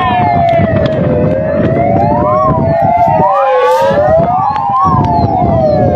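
Several fire-truck sirens wailing at once, their rising and falling tones overlapping out of step, over a dense low noise.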